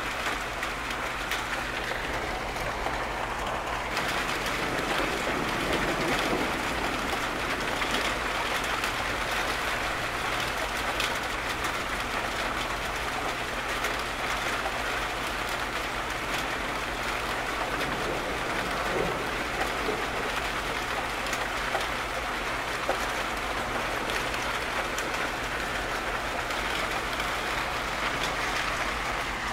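Rain falling steadily, an even hiss with no distinct thunderclap.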